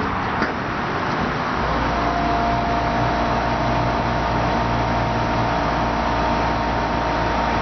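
Electric streetcar's motors and equipment starting up: a single click, then about a second and a half in a low hum with a steady whine comes in and holds, over constant noise.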